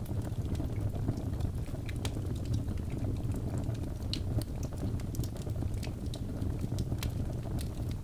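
Wood fire burning in a fireplace: logs crackling with frequent irregular sharp snaps and pops over a steady low rumble of the flames.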